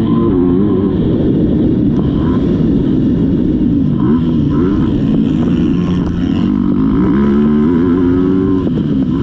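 Motocross dirt bike engine running hard under load, its pitch rising and falling again and again as the rider works the throttle and shifts gears.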